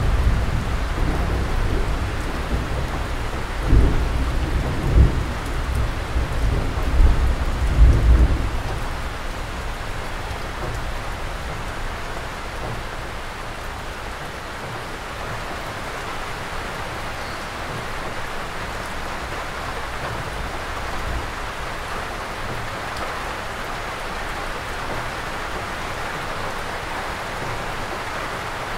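Steady rain falling, heard as an even hiss, with a few loud low rumbles in the first eight seconds before settling to rain alone.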